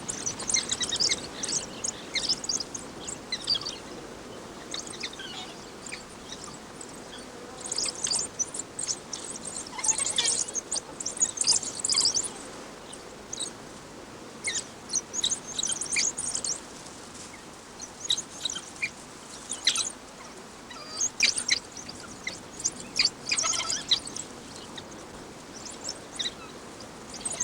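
High, bird-like chirps and twitters in scattered clusters, some rapid runs and some single notes, over a faint steady hiss; the busiest clusters fall about 8 to 12 seconds in and again toward the end.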